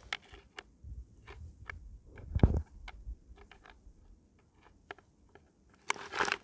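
Scattered light clicks and knocks, with one louder thump about two and a half seconds in and a brief rustling burst near the end.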